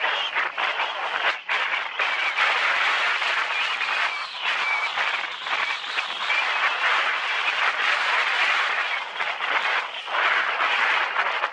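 Mountain bike descending fast over loose rocky ground: a steady rushing, crunching noise of tyres on gravel and air rushing past, dipping briefly every few seconds.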